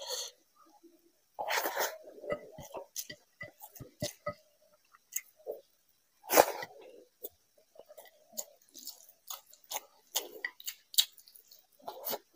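Close-miked eating by hand: wet chewing and lip smacks of rice with fish curry, with fingers squishing and mixing the rice in a glass bowl, made up of many small irregular clicks and smacks. The loudest sounds come about one and a half seconds in and again about six seconds in, when a handful goes into the mouth.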